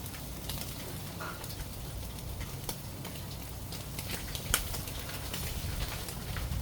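Eel sizzling on a grill, with scattered sharp crackling pops, one louder pop about four and a half seconds in.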